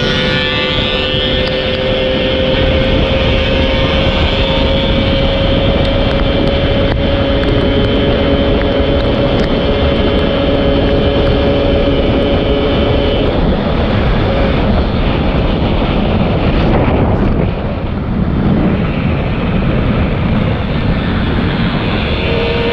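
Two-stroke motorcycle engine held at high revs while riding, its pitch creeping slowly upward for the first half, then giving way to a steady rush of wind noise; near the end the revs climb again.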